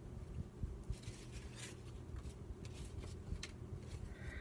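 Faint rustling and a few light taps of paper and cards being handled, over a low steady room hum.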